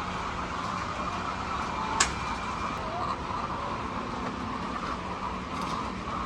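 A steady droning background with a low hum, and one sharp click about two seconds in.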